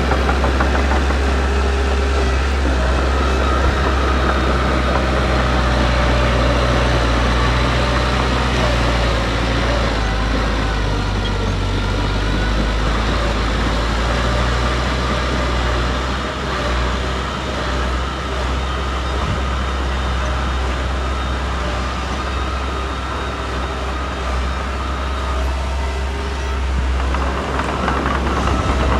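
Heavy diesel engine of earthmoving machinery running steadily with a deep, low hum. It eases off a little past the middle and picks up again near the end.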